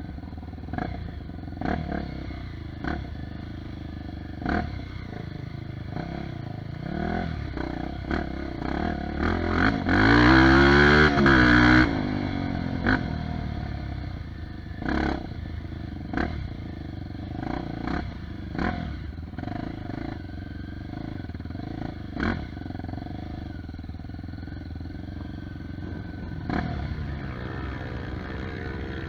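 Off-road trail motorcycle engine running over rough ground, with frequent knocks and clatter. From about seven seconds in its pitch rises into a loud, hard rev lasting about two seconds, then it eases back to a steady run.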